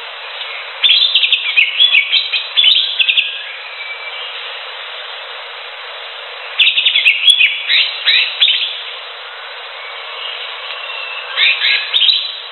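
Greater green leafbird singing: three bursts of rapid, high chirping phrases, about a second in, near the middle and near the end, over a steady background hiss.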